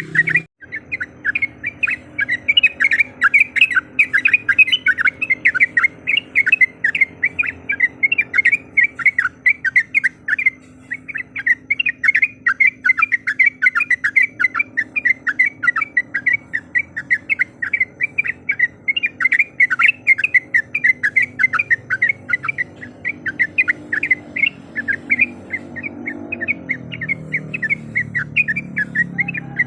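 Yellow-vented bulbul (trucuk) calling nonstop in a fast, rolling chatter of short, loud notes, typical of the long 'ropel' rolling song used to provoke rival birds. A faint low hum runs underneath.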